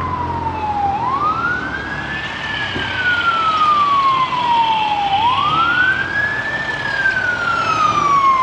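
Emergency vehicle siren wailing: each cycle rises quickly in pitch and then falls slowly, twice in a row.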